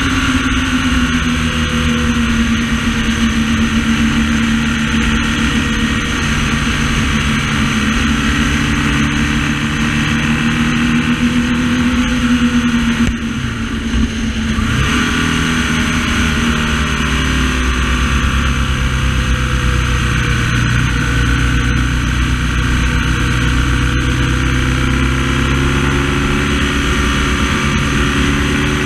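BMW R1200S boxer twin engine running under way, its pitch rising and falling with the throttle, with a short dip in level and pitch about halfway through.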